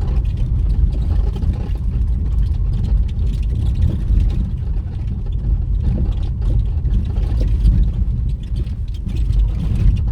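Vehicle driving along a road: a steady low rumble of engine and road noise, with light scattered knocks and rattles.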